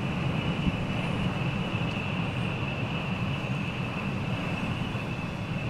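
Gale-force wind, gusting to about 35 knots, buffeting the microphone: a loud, steady rumble with a constant high hiss over it.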